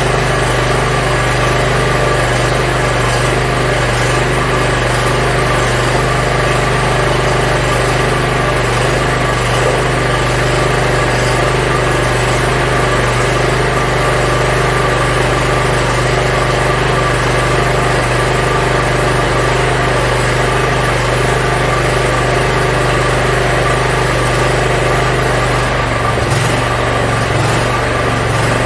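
Yard Machines (MTD) riding mower's small engine running steadily after a carburetor cleaning, sounding healthy. The lowest part of its note shifts slightly near the end.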